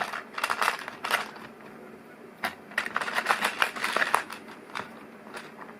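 Small plastic LEGO Technic pieces being handled and snapped together: two flurries of quick plastic clicks and rattles, the second and longer one about two and a half seconds in, with a few lone clicks near the end.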